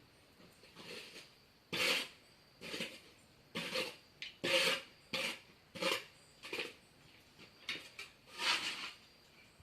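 Repeated short scraping strokes, about a dozen, roughly one a second and unevenly spaced: a mason's hand tool working wet mortar.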